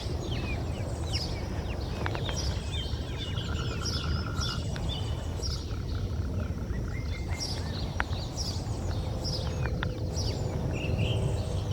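Several small songbirds chirping and calling, with many short high notes and, a few seconds in, a fast trill of evenly repeated notes lasting about two seconds, over a steady low rumble.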